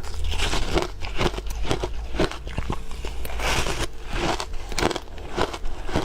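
Ice being bitten and chewed close to the microphone: a run of short crunches, about two to three a second, with a rougher grinding crunch a little past the middle.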